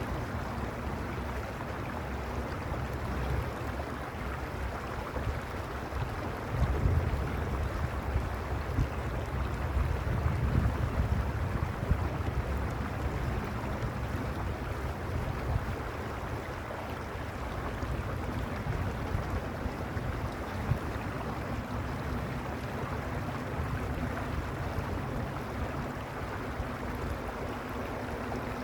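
Creek water rushing steadily, with a low rumble underneath that grows stronger for a few seconds about a quarter of the way in.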